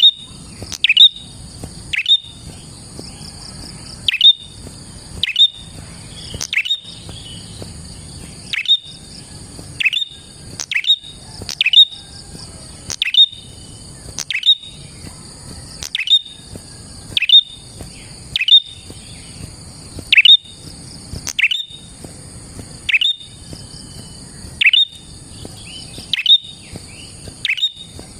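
Prenjak (prinia) calling: sharp, loud calls that sweep downward, repeated about once a second, over a steady high buzz.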